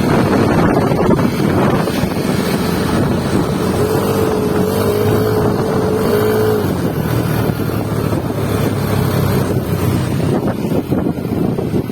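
A vehicle engine running steadily under heavy wind noise on the microphone. About four seconds in, a wavering tone rises over it for nearly three seconds.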